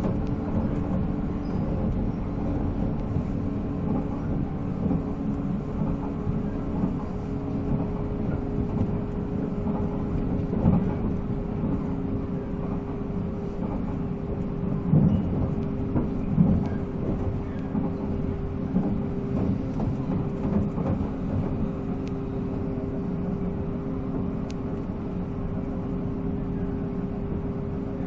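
A 485 series electric train running at steady speed: the MT54 traction motors and gearing hum at a constant pitch over the rumble of wheels on rail. A few louder thumps come through, about ten seconds in and twice more around fifteen to sixteen seconds.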